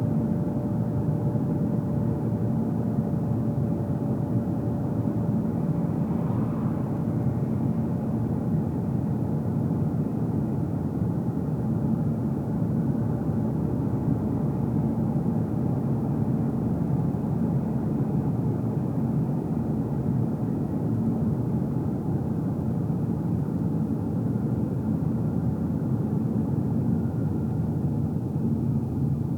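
Steady low rumble of a car's tyres and engine heard inside the cabin while driving, even throughout with a faint steady hum.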